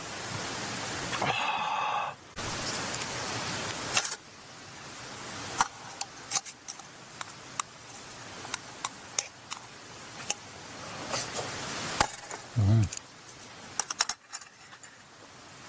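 Campfire crackling: a steady hiss with scattered sharp pops, and a brief low sound near the end.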